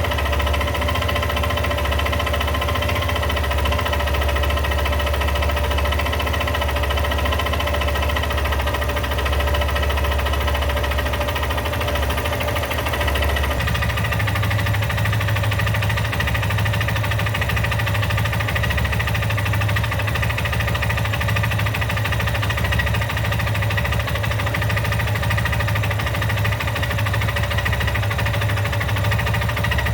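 Yamaha XTZ 250 Lander's air-cooled single-cylinder engine idling steadily, making an engine noise that the owner has noticed at 34,000 km. About halfway through, the engine note steps up slightly.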